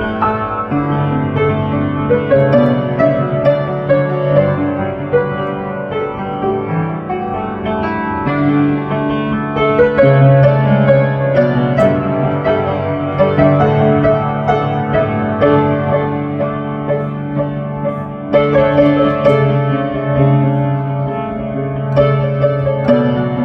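Piano music: sustained, overlapping notes changing about every second.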